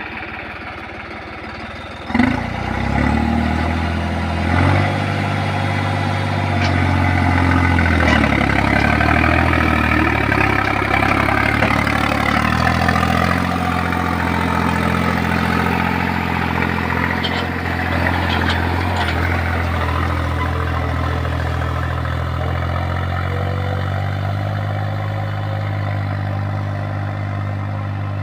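New Holland 3630 tractor's three-cylinder diesel engine running; about two seconds in it revs up suddenly, then runs steadily at higher revs, settling a little lower in the second half.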